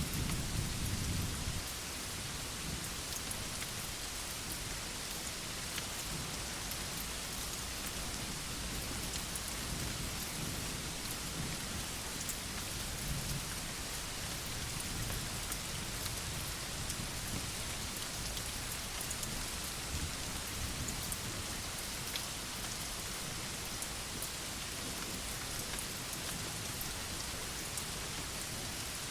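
Steady rain falling on a veranda: an even hiss with scattered drop ticks. A low rumble of thunder dies away in the first second or two.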